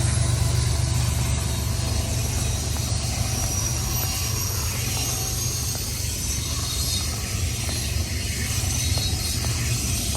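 CN freight train rolling past close by: a steady low rumble of wheels on rail, with a few faint clicks.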